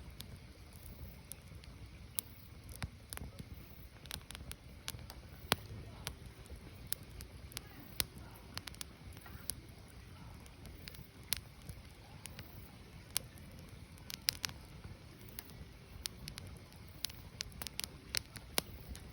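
Firewood burning: sharp, irregular crackles and pops over a steady low rumble of the flames.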